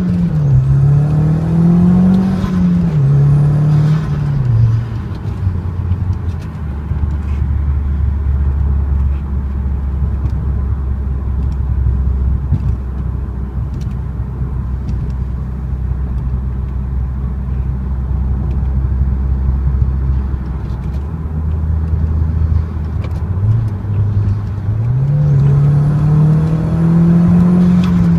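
Audi TT 225's turbocharged 1.8-litre four-cylinder running through a 3-inch turbo-back exhaust with no catalytic converter, on the road. The engine note rises and falls a few times in the first five seconds, settles to a steady low hum for about fifteen seconds of cruising, then climbs again near the end.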